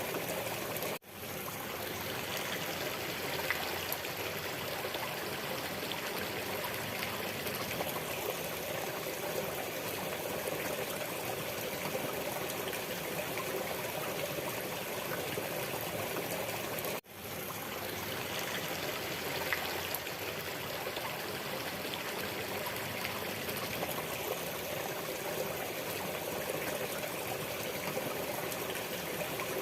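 Waterfall: a steady rush of falling water. It cuts out for an instant and fades back in twice, about a second in and again about sixteen seconds later.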